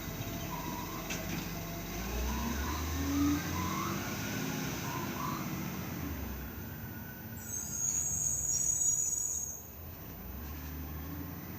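Small garbage truck's engine running, with shifting whining tones in the first few seconds and a sharp hiss lasting about two seconds past the middle.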